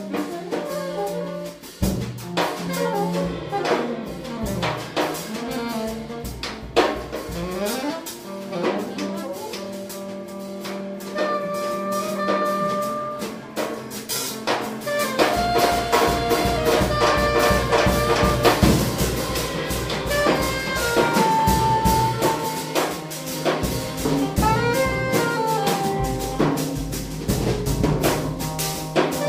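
Live jazz improvisation: saxophone playing bending and held lines over drum kits with steady cymbal and drum strokes. About halfway through, the band grows louder and fuller in the low end.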